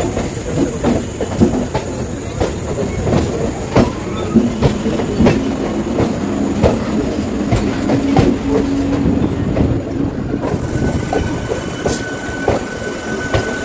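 Electric suburban local trains (EMUs) running: a steady rail rumble broken by frequent irregular clicks of wheels over the track. A low hum runs through the middle, and a thin, high steady tone comes in near the end.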